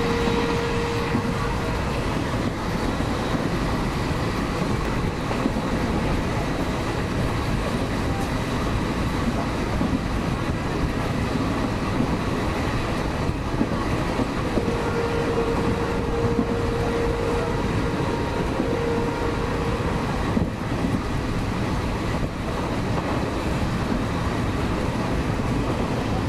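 Passenger train running at speed, heard from inside a carriage: a steady rumble and clatter of wheels on the track. A steady tone rises above the rumble briefly at the start and again for about four seconds midway.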